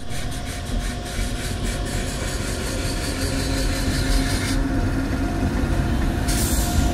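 Indian Railways WAG-9 electric locomotive hauling a container freight train slowly over a bridge: a steady rumble of wheels on rail with a held hum, and quick clicks through the first two seconds.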